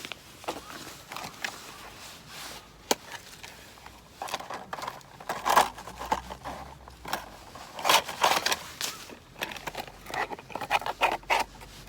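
Irregular rustling and scraping of camping gear being handled, in short bursts with a few sharp clicks.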